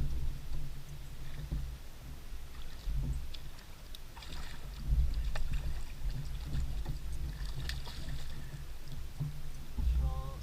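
Low rumble on a GoPro's microphone aboard a fishing kayak, with scattered small knocks and clicks, and a brief pitched sound near the end.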